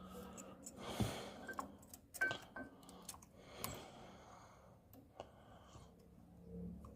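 Scattered light clicks and taps of small metal brake parts being handled and fitted, one or two with a brief faint ring.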